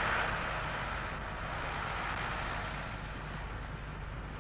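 Massey Ferguson 600 series tractor engine running as the tractor drives along, loudest near the start and then easing off a little.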